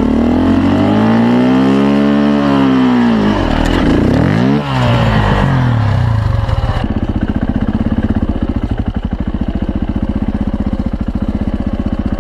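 Motorcycle engine revved up and back down over a few seconds, given another short blip, then left running at a steady idle.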